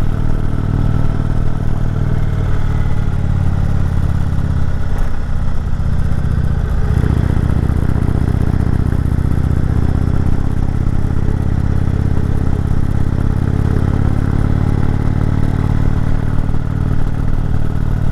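Indian Chieftain Dark Horse's V-twin engine running steadily as the motorcycle climbs a steep mountain road, with road noise over it. The engine note dips briefly about five seconds in and again about seven seconds in.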